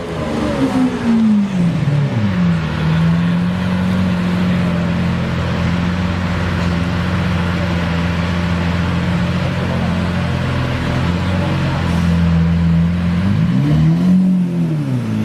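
Car engine and exhaust running: the revs drop over the first two seconds, hold steady for about ten seconds, then rise quickly and fall back near the end.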